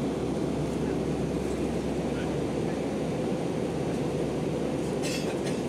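Steady cabin noise inside an Airbus A319-131 in flight: the even, low rush of airflow and its IAE V2500 turbofan engines, heard from a window seat.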